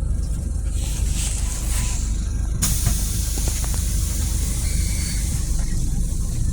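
Scania city bus engine idling with a steady low rumble. About two and a half seconds in, a sudden loud hiss of compressed air from the bus's pneumatic system starts and carries on.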